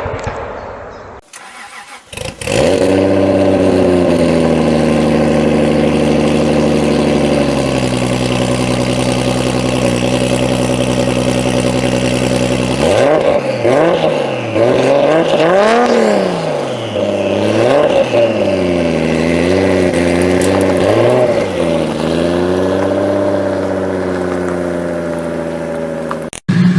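A Japanese performance car's engine starting and idling, the idle easing down slightly after a few seconds. About halfway through it is revved in a series of quick blips, each rising and falling, then it settles back to a steady idle.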